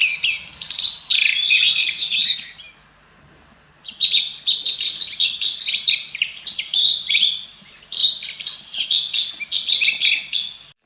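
Red-backed shrike singing: a fast, varied run of scratchy, chattering notes. It pauses for about a second a few seconds in, then sings on without a break.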